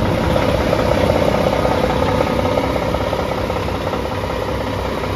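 Tanker truck's diesel engine idling steadily, with a steady mid-pitched tone over it that is strongest for the first few seconds and then fades.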